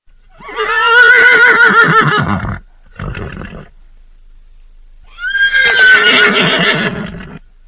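A horse whinnying twice, each neigh about two seconds long and wavering in pitch, with a short fainter call between them.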